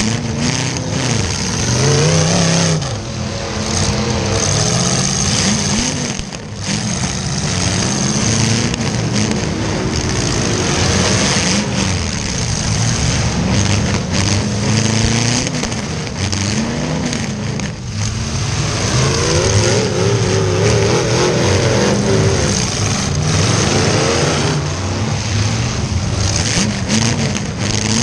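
Demolition derby cars' V8 engines running and revving, the pitch repeatedly rising and falling as they accelerate and back off.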